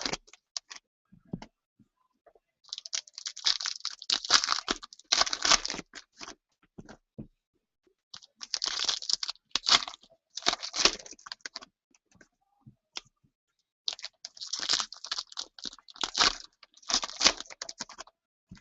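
Plastic wrapping on a trading-card hobby box being torn and crinkled off in several bursts of rustling, with short pauses between them.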